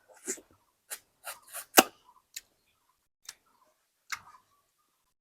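A handful of short, irregular light clicks and taps, about eight in five seconds, with the sharpest one just under two seconds in.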